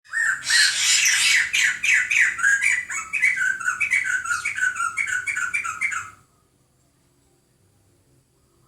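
A bird calling in a rapid series of harsh, squawking notes, each falling slightly in pitch, about four a second; the calls stop about six seconds in.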